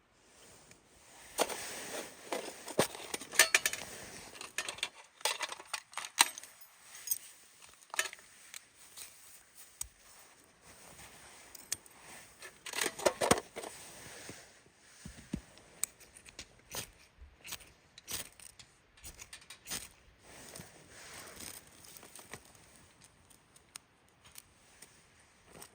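Close-up handling noises: rustling and tearing with many scattered clicks and snaps. Two longer spells of rustling come, one about a second in and one about halfway through.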